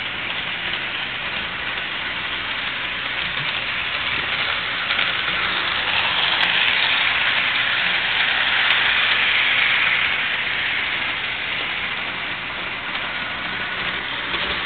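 Mantua Erie Lackawanna model locomotive running with its train of cars along the track, a steady whirring rattle of motor and wheels on rails that grows louder toward the middle and then fades as the train moves away.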